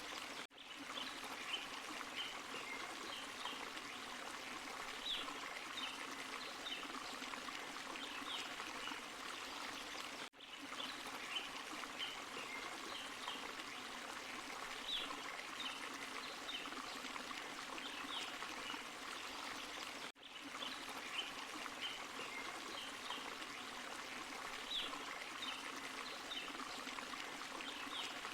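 Small forest waterfall and stream rushing steadily, with short high notes scattered over the water sound. The sound cuts out for a split second about every ten seconds, where the recording loops.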